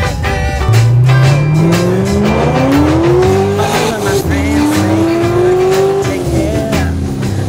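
Chevrolet Corvette V8 engine accelerating hard: its pitch climbs steadily, drops at a gear change about four seconds in, climbs again, then falls off as the driver lifts. Background music plays under it.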